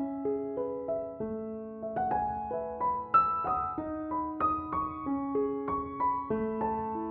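Piano music: a gentle melody of struck notes that ring on and fade, a new note coming about every half second.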